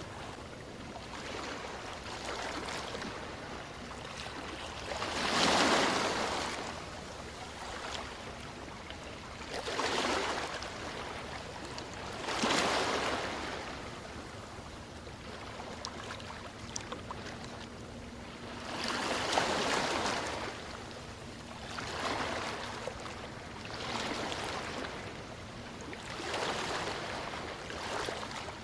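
Ocean waves washing ashore, a surge of surf every few seconds that swells and dies back over a steady wash.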